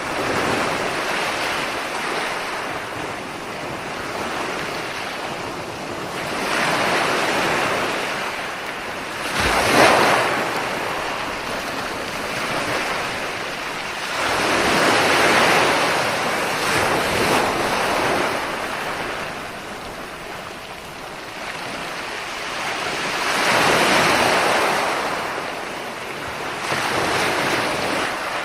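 Ocean surf: waves breaking and washing in slow surges that swell and fade every several seconds, the sharpest crash about ten seconds in.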